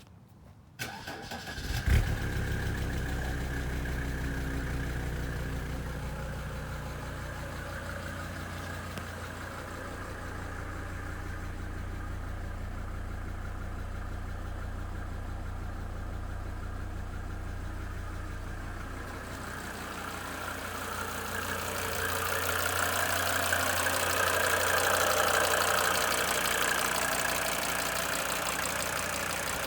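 Cold-engine start of a 1992 Mercedes-Benz 300D diesel: a brief crank just under a second in, catching at about two seconds, then a steady idle. About twenty seconds in the sound grows louder and brighter.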